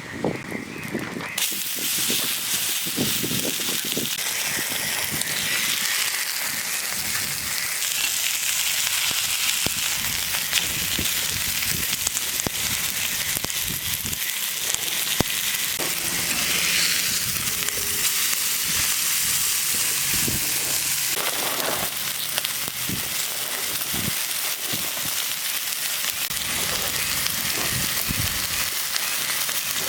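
Food frying over a campfire: a steady sizzle with small crackles and pops.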